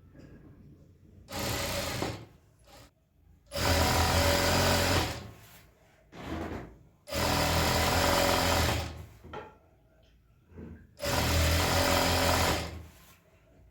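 Electric sewing machine stitching in stop-start runs: three loud runs of about two seconds each, with short taps and pauses between them.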